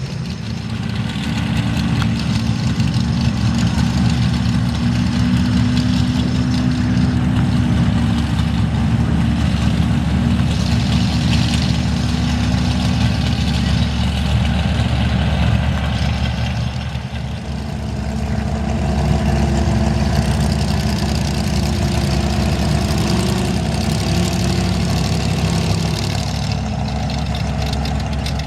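Big mega truck engines running loud and steady in the mud bog. They ease off briefly about 17 seconds in, then pick up again with a steadier, even engine note.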